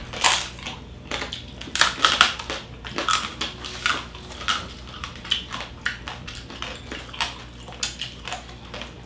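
Close-up crunching of crispy lechon skin, the crackling of a whole spit-roasted pig, being bitten and chewed. Irregular sharp crunches, about two a second.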